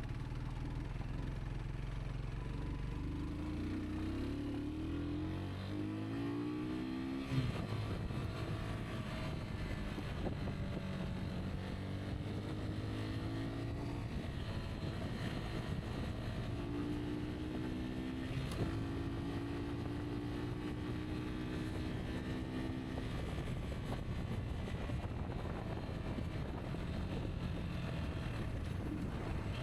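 Rieju Aventura 125 motorcycle engine running while riding, revs climbing, dropping at gear changes and then holding steady.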